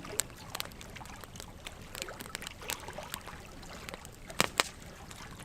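Burning logs crackling: irregular sharp pops and snaps over a soft steady hiss, with two loud pops in quick succession about four and a half seconds in.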